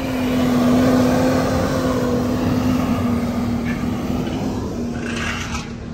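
A steady engine drone: a hum holding one pitch over a rushing noise, loud from the start and easing a little after a couple of seconds.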